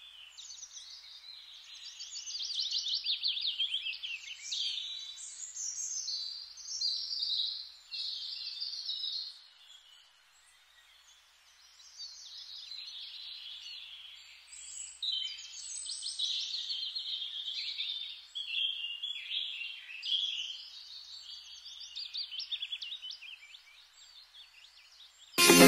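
Songbirds singing: a string of quick trilled and warbling phrases, with a pause of about two seconds near the middle.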